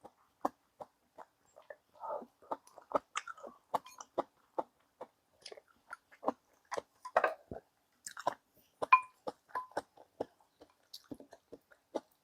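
A person eating close to the microphone: chewing with wet smacks and small irregular clicks, a few a second.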